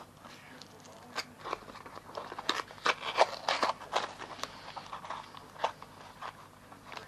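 Parcel packaging being opened and handled: a run of irregular crinkling and crackling that starts about a second in and is busiest in the middle.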